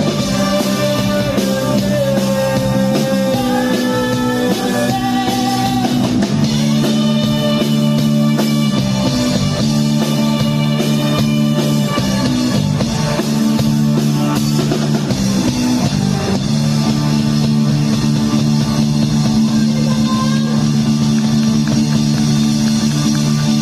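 Rock band playing: guitar with drums over sustained low bass notes, with a gliding melody line in the first few seconds.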